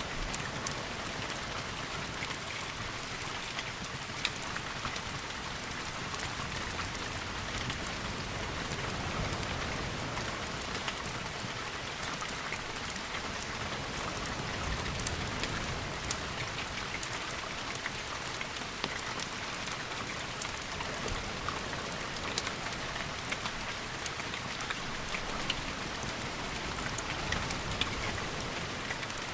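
Steady rain, an even hiss with many small sharp ticks of drops scattered through it.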